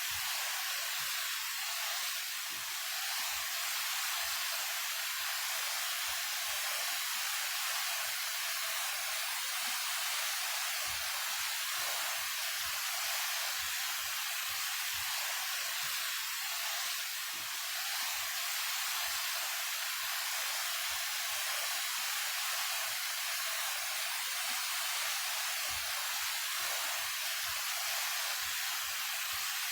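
A 28 m waterfall pouring steadily: an even hiss of falling water, with little deep rumble.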